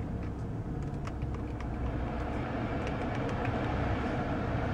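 Steady low hum of a BMW 535i's turbocharged 3.0-litre inline-six idling, together with the climate-control fan, heard inside the cabin, with a few faint clicks.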